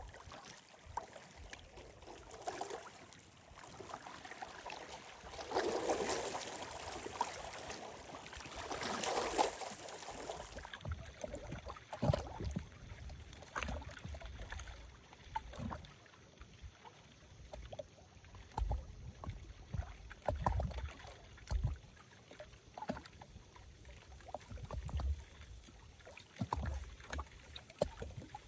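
Small wind-driven waves splashing and lapping at the lakeshore, swelling in surges in the first few seconds, then breaking into irregular slaps, with wind gusts thumping on the microphone.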